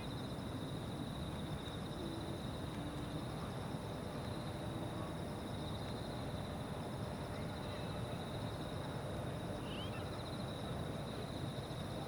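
Evening insect chorus: crickets trill steadily in a high, fast-pulsing ring, over a low steady rumble of open-air background noise.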